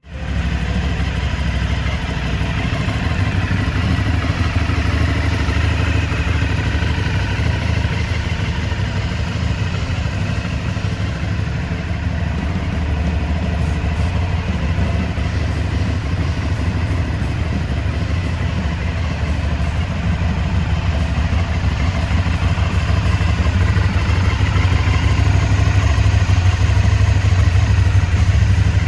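Aprilia Shiver 750's 90-degree V-twin engine idling steadily through twin underseat exhausts.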